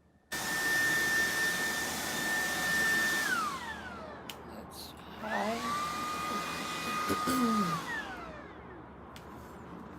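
A cordless stick vacuum's high-speed motor starts suddenly with a high whine, then winds down after about three seconds. About five seconds in it is switched on again, whines up to a lower steady pitch, and winds down again near eight seconds.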